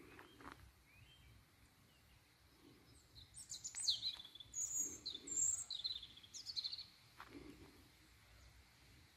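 A small songbird singing: a burst of high chirps, falling sweeps and trills lasting about three seconds, starting a few seconds in, over faint outdoor background noise.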